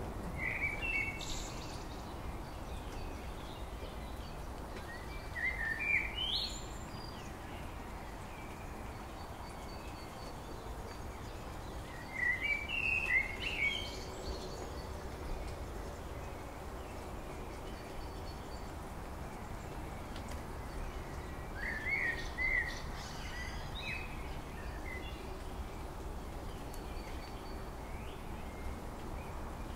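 A songbird sings four short, chirpy phrases with upward-sweeping notes, spaced several seconds apart, over a steady low background noise.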